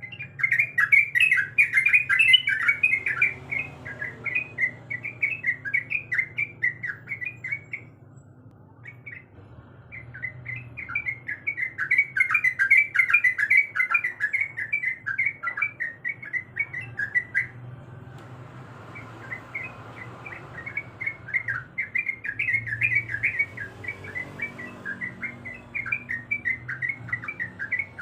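Yellow-vented bulbul (trucuk) singing a fast, bubbly run of chattering notes, in three long phrases with brief pauses between them.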